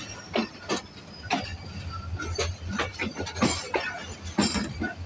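Passenger train coach running through a railway yard: irregular sharp clicks and clanks of the wheels over rail joints and points, over a steady low rumble.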